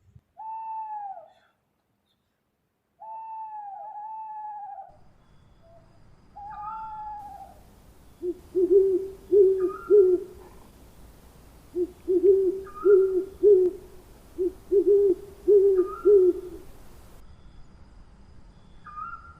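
Owls calling: a few drawn-out, arching calls that fall in pitch, then hooting in quick runs of three or four hoots. Short higher notes recur every few seconds.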